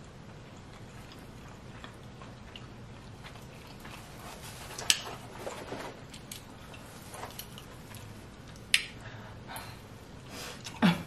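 A person chewing pizza, with soft wet mouth clicks and two sharp smacks, then a louder bite into the slice near the end.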